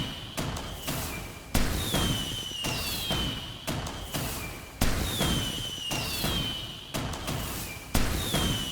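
Fireworks bursting: a loud bang about every three seconds, with smaller pops between them and a high whistle falling in pitch after each bang.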